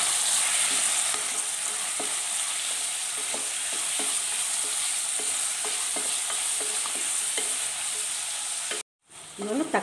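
Chopped onion, tomato, garlic and green chillies sautéing in oil in a pressure cooker pan: a steady sizzle while a wooden spatula stirs them, knocking lightly against the pot now and then. The sound drops out for a moment near the end.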